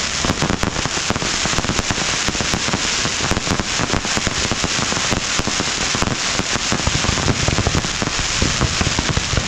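Fireworks launching and bursting in rapid succession: a dense, unbroken crackle of pops and bangs.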